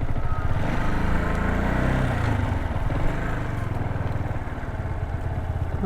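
Yamaha MT-125's small single-cylinder four-stroke engine running, its revs rising about one to two and a half seconds in, then running steadily.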